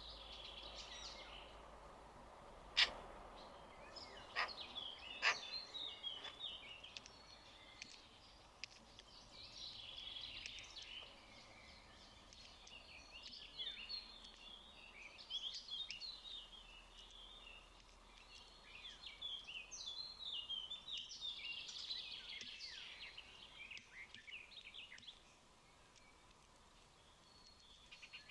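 Birds chirping and twittering in bursts of short, quick calls. Three sharp taps or knocks come about three, four and a half, and five seconds in.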